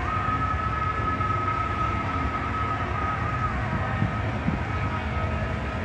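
Steady low rumble of drag cars' V8 engines idling while staged at the starting line, a Corvette Z06 among them, with a steady high whine over the first half.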